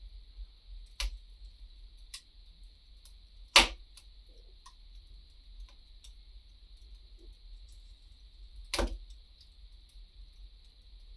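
Wood fire crackling: scattered sharp pops and small ticks at irregular intervals, the loudest pop about three and a half seconds in and another near the end, over a steady high hiss and low rumble.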